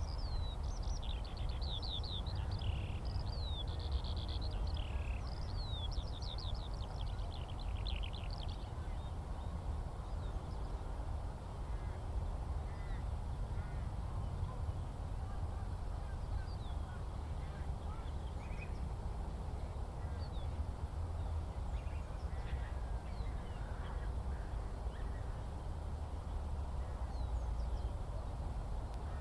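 Eurasian skylark song: a fast, unbroken run of high chirping and warbling notes through the first eight seconds or so, then only scattered faint bird notes. A steady low rumble runs underneath throughout.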